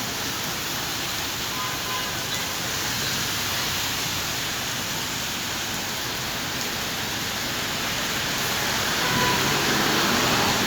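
Steady hiss of rain falling on a city street, swelling a little near the end, where a low hum joins in.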